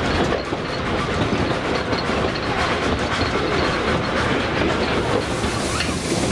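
Narrow-gauge steam train's wooden passenger coaches running along the track, heard from alongside the carriage: a steady rumble with the wheels clicking over the rail joints.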